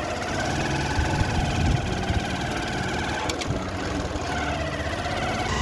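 Motorcycle engine running while riding, its pitch wavering a little, over steady low road rumble.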